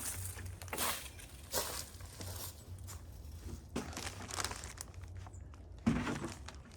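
Crunching, rustling noises at roughly one a second, the sound of someone moving about and handling things while filling bird feeders, with a heavier thump near the end.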